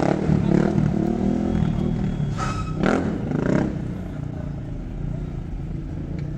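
Car engine running, with two louder swells in the first few seconds before it settles to a steadier, quieter running sound; voices in the background.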